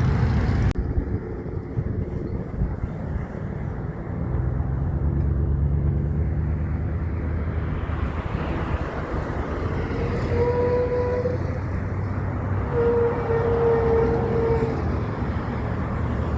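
Truck traffic going by, a steady low engine rumble with passing vehicles. From about ten seconds in, a held tone sounds two or three times.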